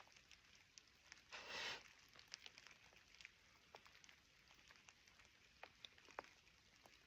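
Faint light rain: irregular raindrops ticking and dripping, with one brief soft hiss about a second and a half in.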